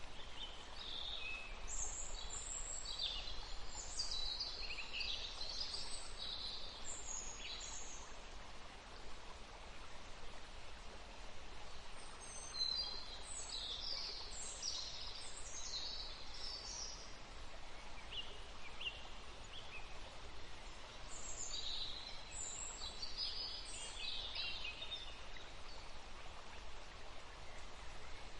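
Forest stream running steadily under several clusters of high, chirping birdsong, with pauses between the bursts of song.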